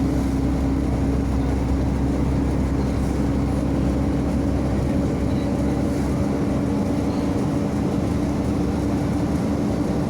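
MAZ-105.065 articulated city bus in motion, heard from inside the passenger cabin: a steady drone of the diesel engine and drivetrain with a constant mid-low hum.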